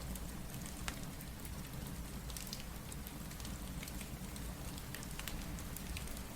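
Steady rain with a low rumble, mixed with the scattered pops and crackles of a wood fire.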